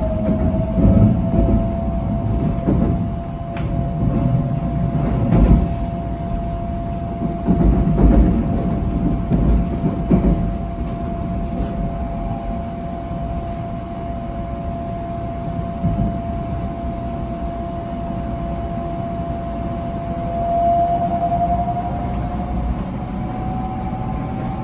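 700 series Shinkansen running at speed: a low rail rumble with a steady whine from the traction motors, which rises in pitch near the end. A few heavier thumps come in the first ten seconds.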